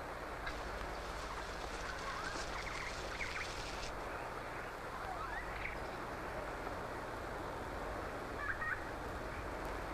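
A continuous chorus of calling frogs, with a few short chirping calls rising above it.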